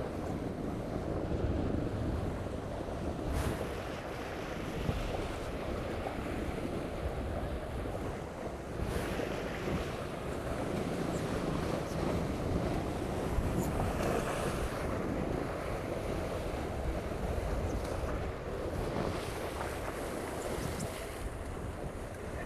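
Wind buffeting the microphone and water rushing past the hulls of a small racing catamaran under sail. A steady rush, with a few brief louder surges about 3, 9 and 14 seconds in.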